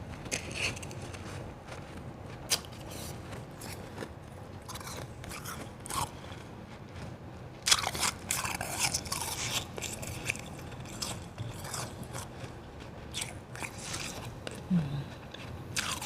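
A person chewing and crunching white ice close to the microphone: irregular crisp crunches, with a denser run of crunching about halfway through.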